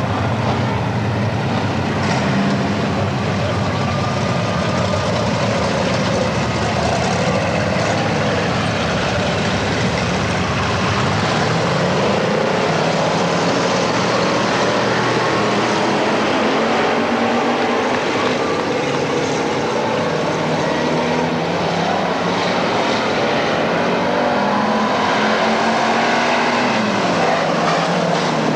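Dirt-track race car engines running at speed, their pitch rising and falling as the cars accelerate and back off.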